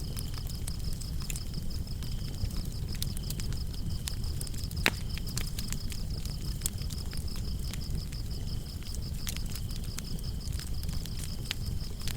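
Wood fire crackling with scattered small pops and one sharper pop about five seconds in, over a low rumble. Crickets chirp in a fast, even pulse, with a second, lower-pitched cricket coming and going.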